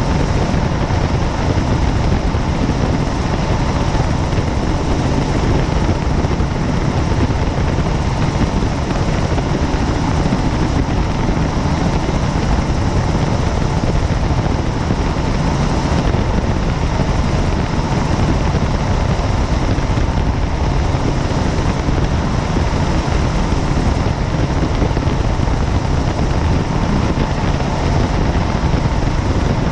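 Helicopter in flight: steady, loud rotor and turbine engine noise with no change in pitch or level.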